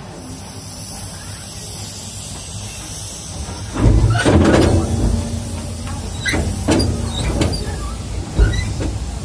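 Narrow-gauge train running with a steady low rumble. From about four seconds in come a series of loud clanks and knocks mixed with brief high squeals.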